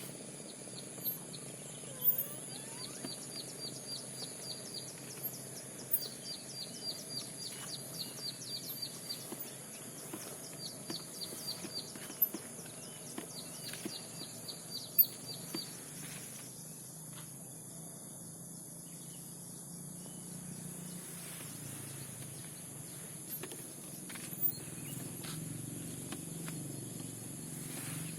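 Wild birds calling in a forest, with bouts of rapid, evenly repeated high chirps that start and stop several times in the first half. These sit over a steady high insect buzz, and a few sharp single clicks stand out.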